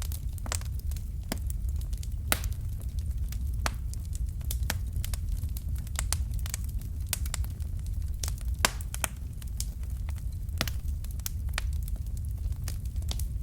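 Wood fire crackling in a fireplace: irregular sharp pops and snaps over a steady low rumble of the flames, with the loudest pops about two seconds in and near nine seconds.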